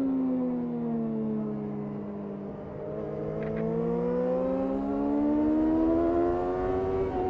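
2005 Yamaha R6's inline-four engine heard from the rider's seat. Its revs fall for about two and a half seconds as the throttle is eased, then climb smoothly and steadily under acceleration.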